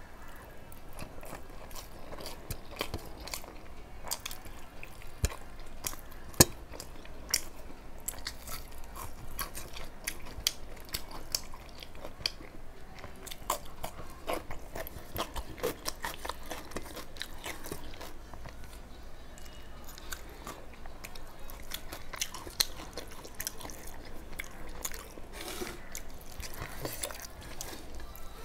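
Close-up chewing and biting of food eaten by hand, with many small crunches and wet mouth clicks throughout. A sharp click about six seconds in is the loudest moment.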